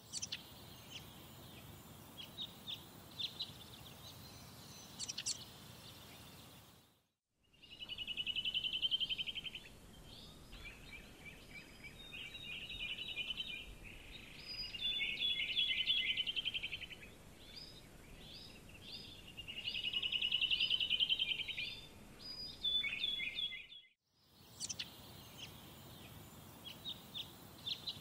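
Birds chirping and singing fast trills over a faint steady hiss. The sound drops out briefly twice.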